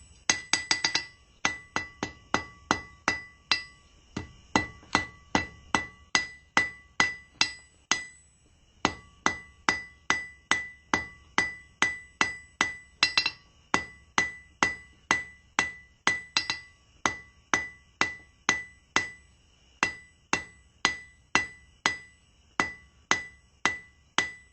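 Blacksmith's hand hammer striking a steel bar on an anvil at a steady pace of about two blows a second, each blow ringing. It opens with a quick flurry of blows and has a pause of about a second a third of the way in. The smith is hammering out an over-bent section of the fire poker.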